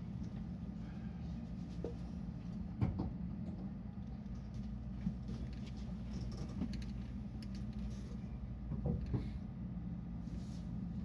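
Steady low hum inside the passenger cabin of a stopped 223 series electric train, with a few scattered small knocks and clicks.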